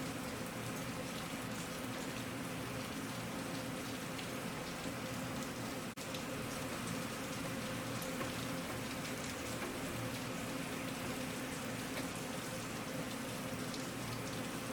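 Steady rain, an even dense patter with no let-up, broken by a momentary dropout about six seconds in.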